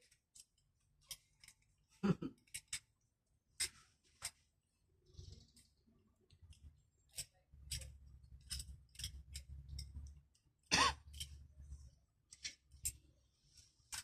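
Irregular sharp clicks and snips, more than a dozen scattered through. A low hum comes in for a few seconds past the middle, and there is one louder clack just before the end.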